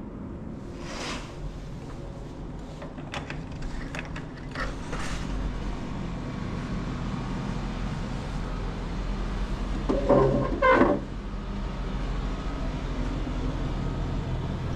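A motor vehicle engine running steadily, slowly getting a little louder, with a few light clicks early on and a short, loud pitched sound about ten seconds in.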